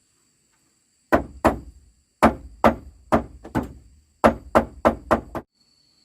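Eleven sharp blows struck in three quick runs of two, four and five, each ringing out briefly.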